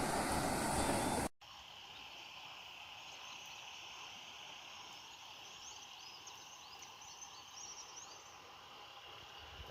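A loud rushing noise cuts off abruptly about a second in. It gives way to quieter rural ambience: a steady insect drone and many short, high bird chirps.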